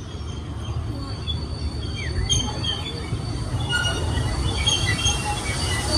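Disneyland Railroad passenger train rolling along the track: a steady low rumble with short high-pitched wheel squeals scattered through, growing a little louder in the second half.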